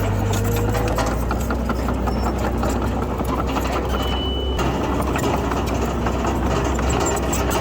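Diesel engine of a Komatsu D31PX bulldozer running steadily, with many small clanks and clicks from the working machine. A brief high squeal about four seconds in.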